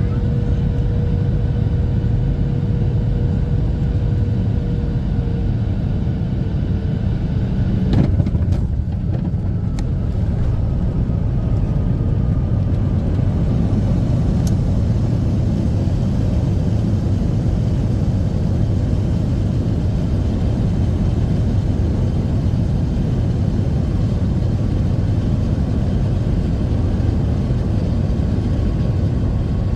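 Boeing 737-800 cabin noise while taxiing after landing: a steady low rumble from the engines and the rolling aircraft. A steady tone fades out about twelve seconds in, and a few sharp clicks come about eight seconds in.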